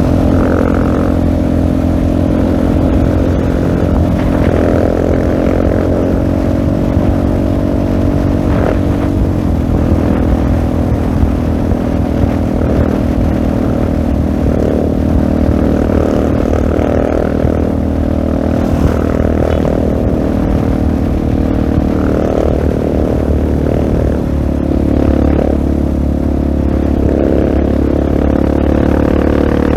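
Husqvarna 701 Supermoto's single-cylinder four-stroke engine running through a LeoVince full-system exhaust while being ridden, its pitch rising and falling with the throttle.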